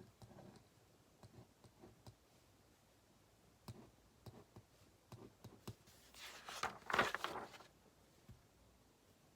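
Quiet desk sounds of studying: scattered light clicks and taps of a ballpoint pen. A louder paper rustle comes about six seconds in and lasts a second or so.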